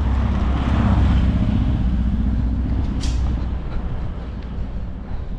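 A car passing by, its noise swelling to a peak about a second in and fading away over the next few seconds. There is a brief hiss about three seconds in.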